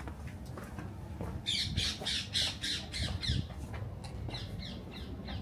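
A bird calling: a run of about a dozen short, shrill notes, each dropping in pitch, that start about a second and a half in, come faster and fade away.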